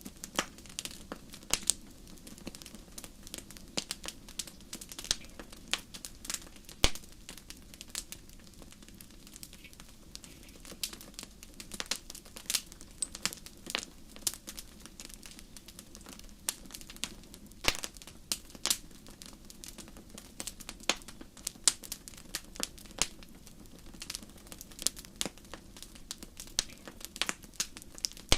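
Wood fire burning in a fireplace, crackling with irregular sharp pops of varying loudness over a steady low hiss of flame.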